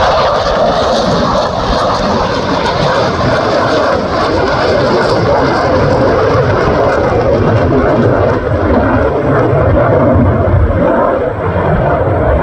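Fighter jet engine roar, loud and continuous, with wind buffeting the microphone underneath it.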